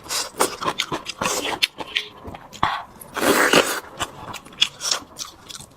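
Close-miked eating sounds: wet chewing with sharp lip smacks and clicks, broken by several louder, noisier slurping or mouthful bursts.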